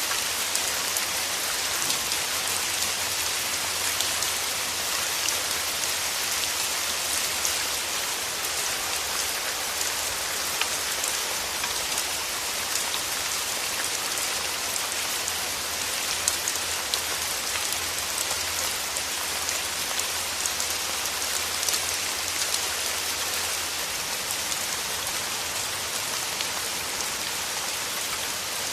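Steady rain falling through forest trees, an even hiss full of many small drop ticks on leaves.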